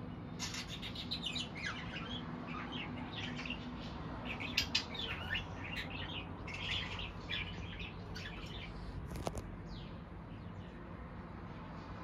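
Small birds chirping and twittering in quick, rising and falling notes through most of the first nine seconds, over a low steady background hum. A single sharp click about nine seconds in.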